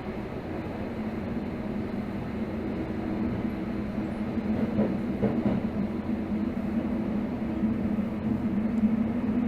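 Tokyo Metro Hibiya Line 13000 series subway train running between stations, heard from inside the car: a steady rumble of wheels and running gear with a low hum, growing gradually louder.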